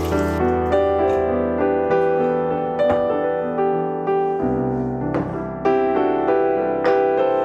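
Background piano music, a slow melody over held chords, with a few faint light ticks from household activity.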